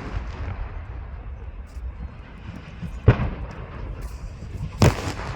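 Two booms, about three seconds in and again near the end, from gas cylinders bursting on a burning gas-cylinder truck, over a steady low rumble.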